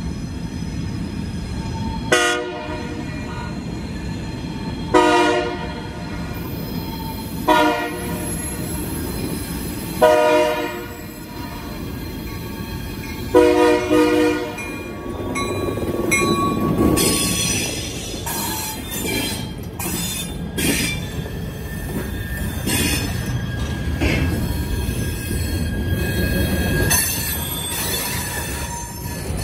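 Diesel freight locomotive sounding its horn in five blasts for a grade crossing, the last the longest, then passing close by with its engine running and the freight cars rolling and clanking over the rails, wheels squealing.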